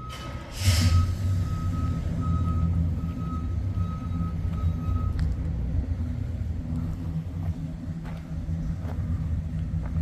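The 429 Super Cobra Jet big-block V8 of a 1970 Ford Torino Cobra fires up with a sharp burst under a second in, then runs steadily. A repeated high electronic beep sounds alongside it and stops about five seconds in.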